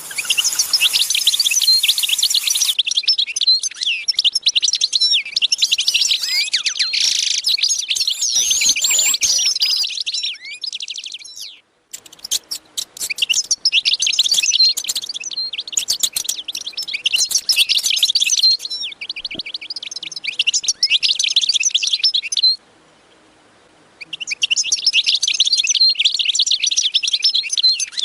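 Many small birds chirping rapidly and densely, with abrupt breaks twice where the sound cuts out.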